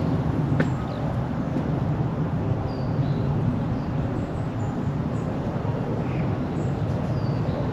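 Steady low rumble of road traffic, with small birds chirping briefly now and then over it.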